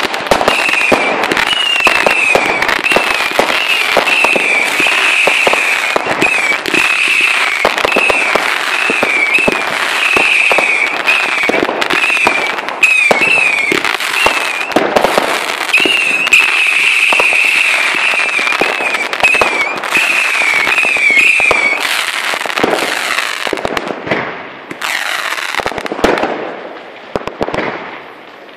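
Consumer fireworks batteries firing shot after shot with dense crackling and bangs, and a high wavering whistle-like tone repeating through most of it until it stops about three-quarters of the way in. The firing thins out and gets quieter near the end.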